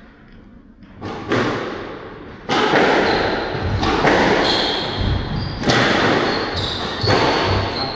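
Squash rally: the ball is struck by rackets and cracks off the court walls about every second or so, starting about a second in, each hit echoing in the hall. Brief high squeaks of court shoes on the floor sound in the second half.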